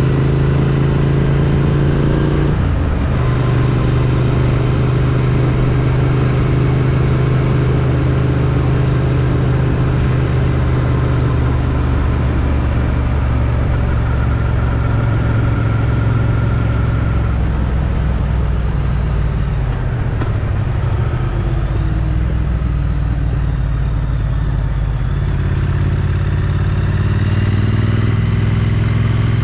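Triumph Street Twin's parallel-twin engine running through its stock exhaust while riding, heard from a helmet chin-mounted camera over steady wind rush. The engine note breaks briefly about two and a half seconds in; past the middle it falls as the bike slows, then climbs again near the end.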